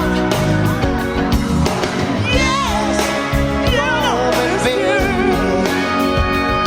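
Pop ballad playing: a voice sings long held notes with vibrato over a full band.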